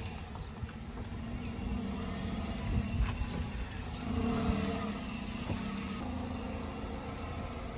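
A car engine running with a steady low rumble that swells slightly a few times, with faint short bird chirps over it.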